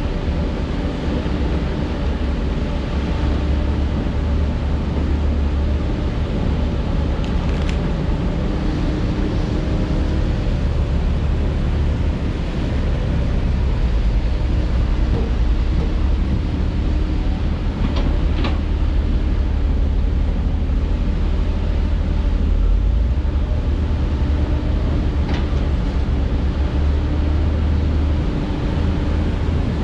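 Heavy diesel construction machinery running steadily under load, a deep low drone, with three short sharp clanks of metal or rock spread through it.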